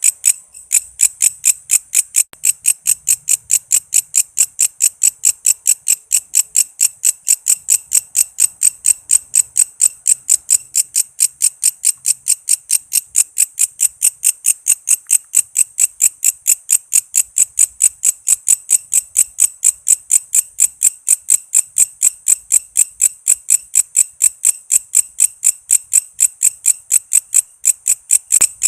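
Walang kece katydid (bush cricket) calling: a steady, rhythmic train of sharp, high-pitched chirps at about four a second.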